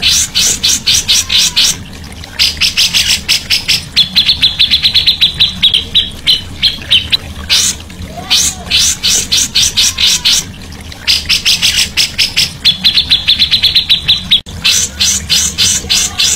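A songbird singing loud trains of rapid, sharp repeated notes, about eight to ten a second, in phrases a few seconds long broken by short pauses, over a faint low hum.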